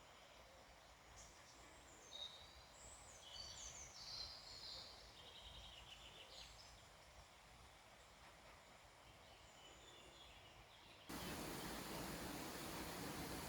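Faint outdoor ambience with several birds chirping in the first half. About eleven seconds in, it switches abruptly to a louder, steady rushing noise.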